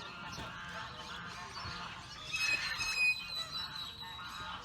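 Waterfowl calling over one another, many calls overlapping, with a louder cluster of higher, sharper calls about halfway through.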